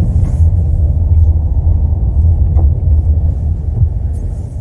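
Steady low rumble of a car heard from inside the cabin, with no distinct events on top.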